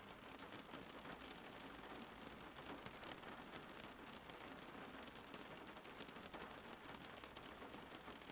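Steady rain falling outside, a soft even hiss of many fine drop patters.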